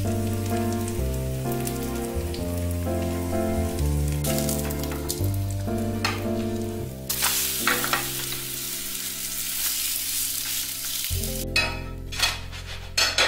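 Wild garlic pancake batter sizzling in a frying pan, with a spatula stirring and scraping the pan, over background music. The sizzle grows louder about seven seconds in and stops around eleven seconds; a few clinks follow near the end.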